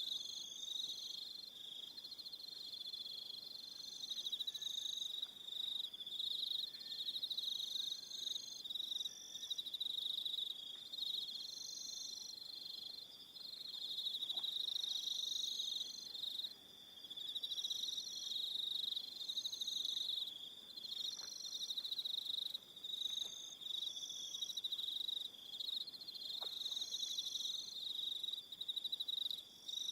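Evening chorus of crickets: many overlapping trills forming a steady, high-pitched pulsing drone, with shorter, higher-pitched trills starting and stopping throughout.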